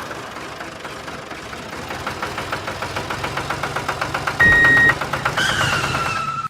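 Mini tractor engine running with a rapid knocking rhythm, about ten beats a second, getting louder. A short beep comes about four and a half seconds in, and a high tone slides slowly down near the end.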